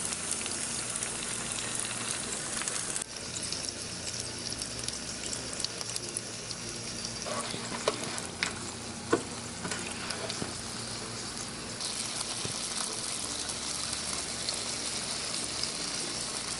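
Steak-and-cheese corn tortilla quesadillas sizzling steadily in oil in a nonstick frying pan, with the cheese that spilled over crisping on the pan. The hiss eases a little about three seconds in and picks up again near the end. A few light clicks come from the spatula against the pan around eight to nine seconds in.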